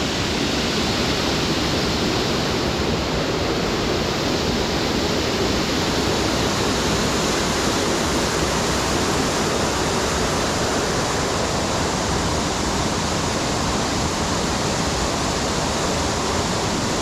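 Steady rushing of a waterfall, water falling and splashing continuously at an even level.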